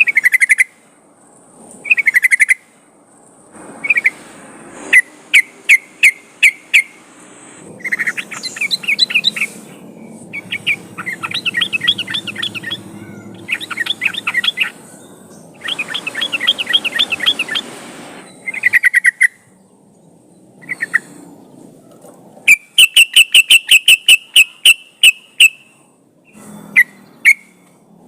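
Yellow-vented bulbul (trucukan) song: short bubbly phrases repeated with brief gaps, chattering runs in the middle, and a fast, even series of sharp notes near the end.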